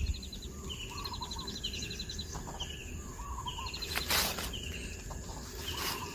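Small birds chirping repeatedly in short two- and three-note phrases, with quick ticking trills. There is a brief rustle of movement about four seconds in.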